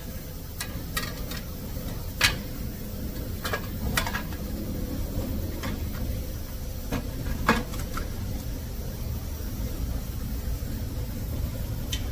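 Scattered clicks and knocks of tools and parts being handled during a rear wheel bearing replacement, the loudest about two seconds and seven and a half seconds in, over a steady low hum.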